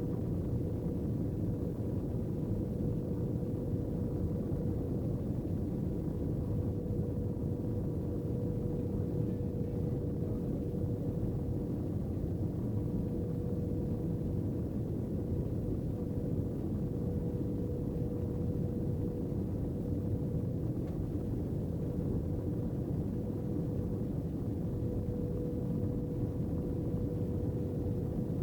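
Airbus A319 cabin noise: a steady low rush of engine and airflow heard from inside the cabin, with a steady mid-pitched hum running through it.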